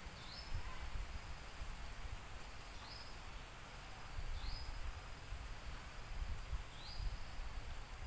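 A bird in tropical woodland gives a short rising call four times, a few seconds apart, over a steady background hiss and a low, fluctuating rumble.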